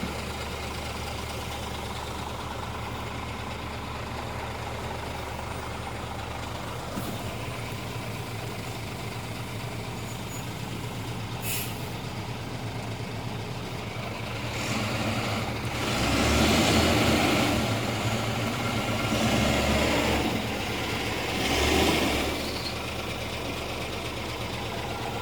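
Scania R 450 truck's 13-litre inline-six diesel idling steadily, then revved up three times in the second half before settling back to idle.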